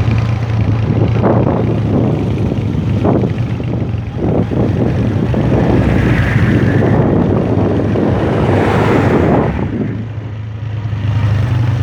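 A vehicle engine hums steadily under heavy wind noise on the microphone, the rush easing briefly about ten seconds in.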